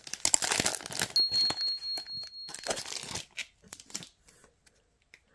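Foil booster pack of trading cards being torn open and crinkled, with a thin high whine partway through, then a few lighter clicks and rustles as the cards are handled before it goes quiet.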